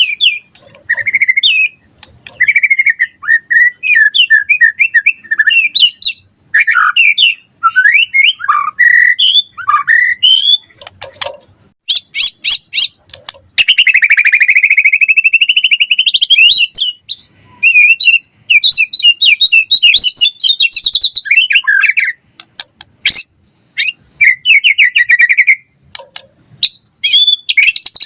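White-rumped shama singing loudly and almost without pause: a quick run of varied whistled phrases, trills and chatter, with a long buzzing rattle about halfway through.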